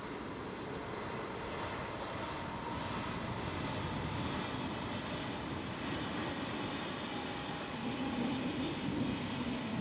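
KTX-Sancheon high-speed train running along an elevated viaduct: a steady rushing noise that grows a little louder near the end.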